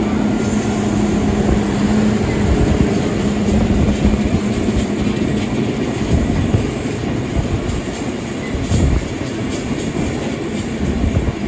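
Passenger train carriage rolling along the track, a steady rumble of wheels on rails heard from onboard, with a steady hum through the first two seconds.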